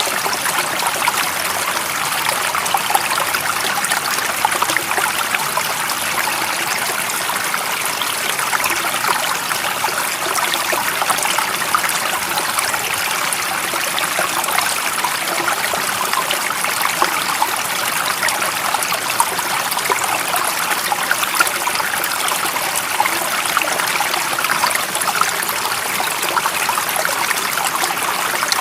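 Stream water running and trickling in a steady, even rush, with many small splashes.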